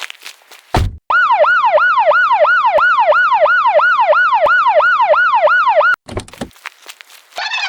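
Electronic siren wailing in fast repeating sweeps that jump up and fall away, about three a second, for about five seconds before cutting off suddenly. Short bursts of noise come just before it and just after it.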